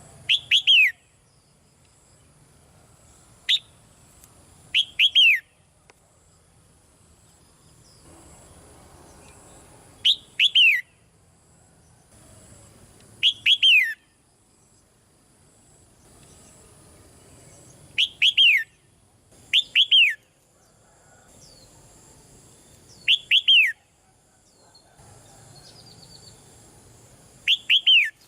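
Red-whiskered bulbul calling: short groups of two or three quick notes, each sliding downward, repeated about eight times at intervals of a few seconds.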